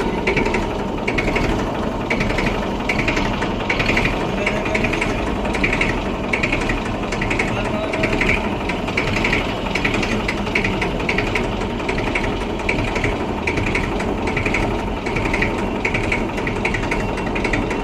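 Massey Ferguson tractor running, a steady low engine hum under a regular mechanical clicking rattle at about two clicks a second.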